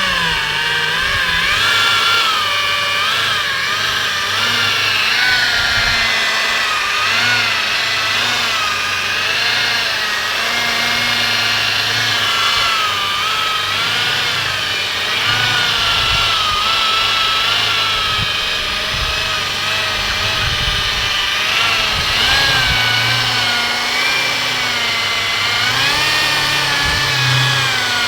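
Electric car polisher running, its motor whine rising and falling in pitch as the load on the pad changes, while it buffs rubbing compound over the body paint to cut out sanding marks.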